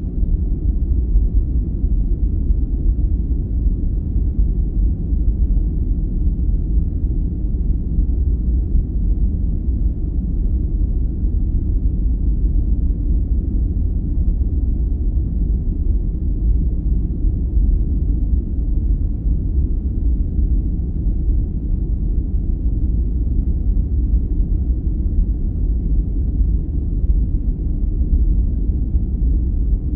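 Steady, deep rumbling noise with its weight in the lows and nothing high in it, unchanging: a continuous brown-noise style sleep sound.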